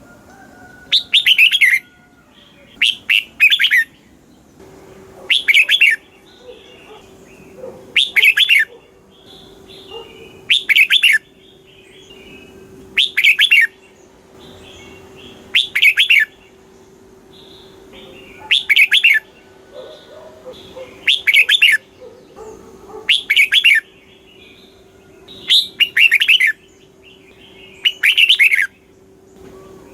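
Red-whiskered bulbul singing: about a dozen short, loud warbling phrases, each about a second long, repeated every two to three seconds, with softer chirps between them and a faint steady hum underneath.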